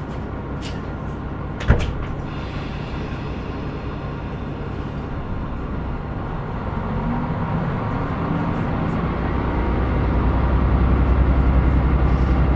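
Inside a KiHa 125 diesel railcar: the diesel engine idles, and a single sharp thud of the doors shutting comes about two seconds in. From about seven seconds the engine speeds up and its drone rises and grows louder as the railcar pulls away.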